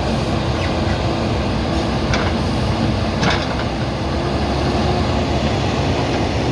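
JCB backhoe loader's diesel engine running steadily, with two short knocks about two and three seconds in.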